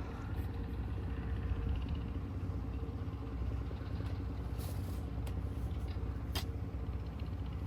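Steady low rumble of background road traffic, with a few faint clicks and one sharper tick about six and a half seconds in.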